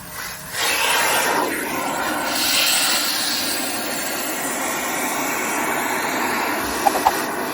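SilverCrest SBZBK 850 B2 vacuum cleaner running with a steady rushing motor noise. It dips at the very start and comes back about half a second in, and two short ticks sound near the end.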